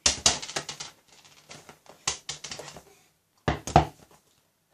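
A quick run of sharp clicks and knocks, several to the second, from something being handled close by. They pause briefly just before three seconds and come back as a louder cluster about three and a half seconds in.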